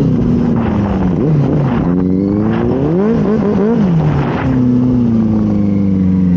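Benelli 600i inline-four motorcycle engine on the move: its pitch falls over the first couple of seconds, climbs again, rises and falls three times in quick succession a little past halfway, then settles and slowly drops.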